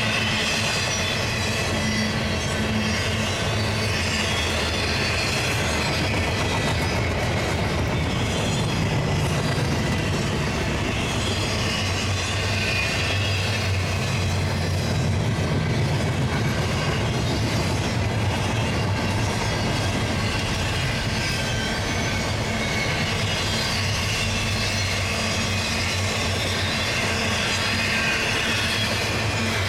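Double-stack intermodal container train passing at steady speed: a continuous rumble of its wheels and well cars rolling over the rails.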